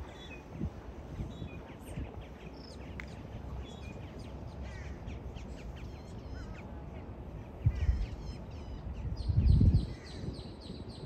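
Birds chirping and calling in scattered short notes, with a quick run of repeated high notes in the last few seconds. Two low rumbles stand out, the louder one about three-quarters of the way through.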